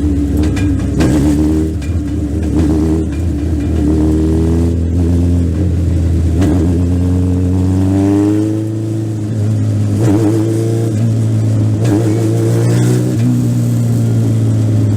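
Legend race car's Yamaha four-cylinder motorcycle engine at racing speed, heard from the in-car camera: the revs rise and fall several times as the driver accelerates and lifts, with a clear climb in pitch about halfway through.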